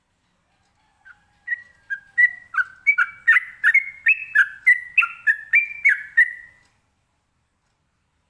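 Yellow-vented bulbul (trucukan) singing a rapid run of about sixteen short whistled notes, roughly three a second, each note hopping between a lower and a higher pitch. The run starts about a second in and stops well before the end.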